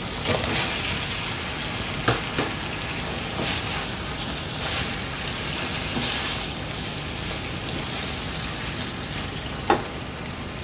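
Spice paste sizzling in hot oil in a frying pan as half-fried tofu pieces are tipped in and stirred through with a spatula, with occasional sharp clacks of tofu and spatula against the pan, the sharpest near the end.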